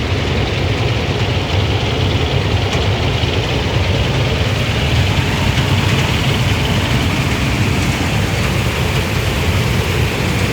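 Farm machine's diesel engine running steadily under load, an even low rumble with a broad hiss over it.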